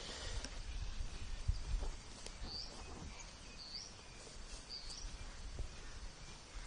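Outdoor ambience with a low rumble and a dull thump about one and a half seconds in, while a small bird chirps three times, about a second apart, in the middle.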